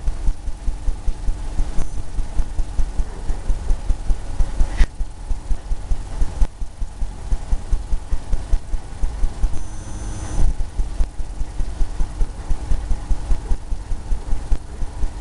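Fan brush dabbing and scrubbing oil paint onto canvas in quick repeated strokes, giving a steady rhythm of dull low thuds at about three to four a second.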